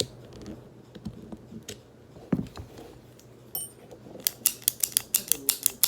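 Small metal gun parts clicking and clinking by hand during revolver disassembly, ending in a fast, even run of sharp clicks, about six a second, over the last second and a half.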